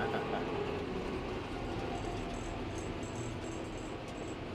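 Tractor engine running steadily on the road, a low rumble with road noise, with a faint high-pitched whine coming and going in the middle.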